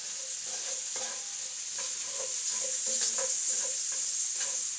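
Chopped bacon, shallot and garlic sizzling in a stainless steel skillet, stirred with metal tongs that click and scrape against the pan several times.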